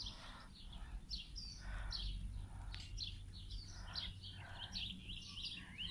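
Faint chirping of small birds, many short chirps throughout, with soft rustling as a hand rubs a puppy's fur.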